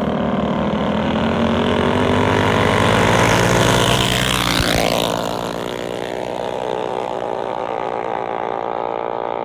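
Small single-cylinder minibike engine running hard and passing close by about halfway through, its pitch dropping as it goes past, followed by a steadier engine note.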